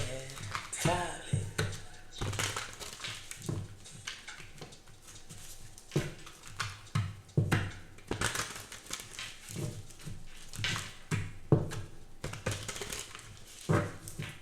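A series of irregular knocks and clicks, a few each second.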